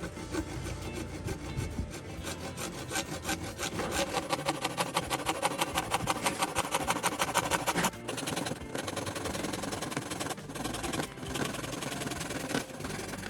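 A hand tool scraping through wood in quick back-and-forth strokes, about five a second. The strokes are strongest and most even from about four to eight seconds in, then lighter and more broken, with short pauses.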